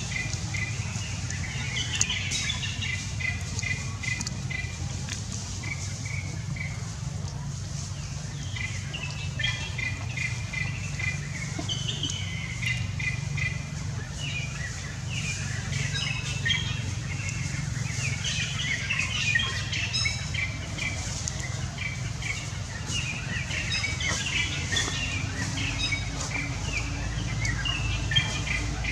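Birds chirping in quick runs of short repeated notes, over a steady low rumble of background noise.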